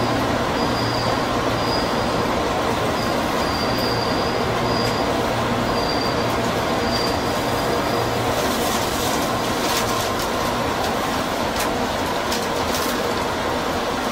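JR East 205 series electric commuter train heard from inside its cab while it rolls out of a station: a steady rumble of running noise, with a broken high wheel squeal through the first half. In the second half the squeal stops and sharp clicks come in as the wheels cross rail joints and points.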